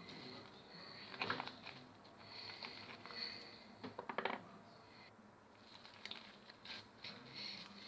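Slime being squished and worked by hand, making soft crackles and small pops that come in clusters about a second in, around four seconds, and again near the end.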